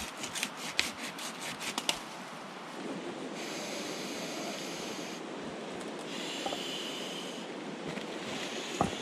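Dry wood crackling and snapping, sticks being handled or broken, for about two seconds. Then a steady rushing noise with a high hiss that comes and goes in stretches, with a single sharp snap near the end.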